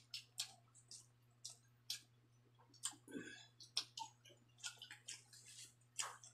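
Faint, irregular wet mouth clicks and smacks of a person chewing rice.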